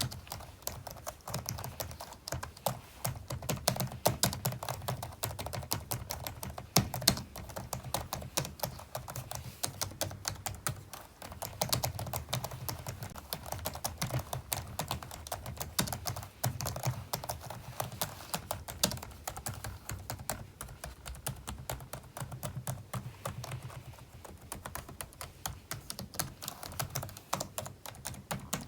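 Typing on a computer keyboard: a continuous run of fast keystroke clicks, with a short pause about eleven seconds in.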